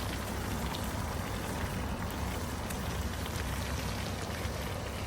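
Wood fire crackling, with scattered small pops over a steady hiss, under a steady low rumble.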